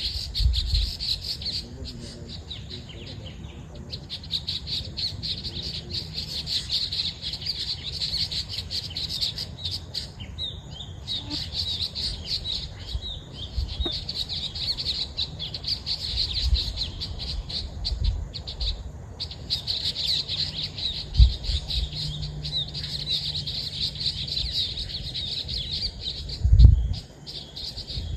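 Birds chirping and calling in a dense, continuous high chorus with brief gaps. A few low thumps break in, the loudest near the end.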